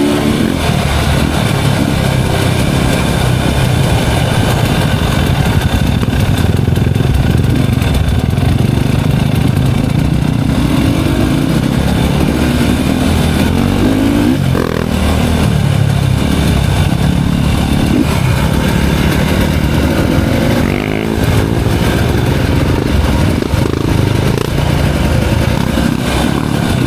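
Off-road dirt bike engine running under load along a trail, revving up and down as the rider works the throttle.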